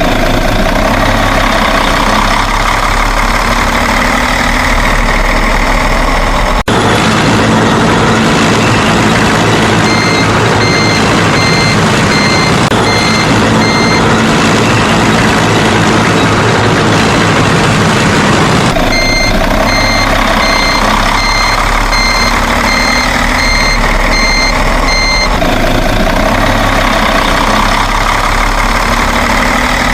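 Truck engine running loudly and steadily, with a reversing alarm beeping at an even pace in two spells, the first about ten seconds in and the second from about nineteen seconds in.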